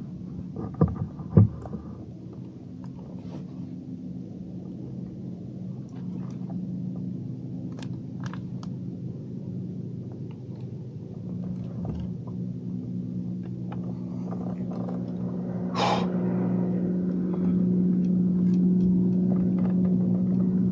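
A boat motor running steadily with a low, even hum, growing louder toward the end. Two sharp knocks sound about a second in, and a few light clicks follow.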